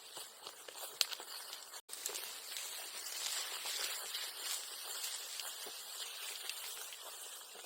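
Bonfire of bamboo grass burning, an even hiss with scattered small crackles and one sharp snap about a second in. The sound briefly cuts out just before two seconds, then comes back a little denser.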